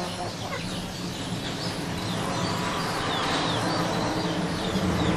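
Birds chirping: many short, quick, falling calls over a steady low hum.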